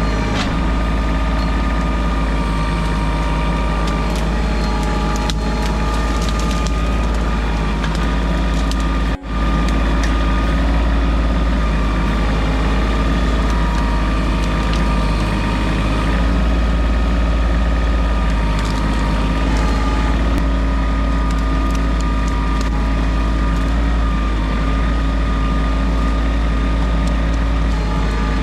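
Kioti CK2610 compact tractor's diesel engine running steadily at working speed, briefly cut off about nine seconds in.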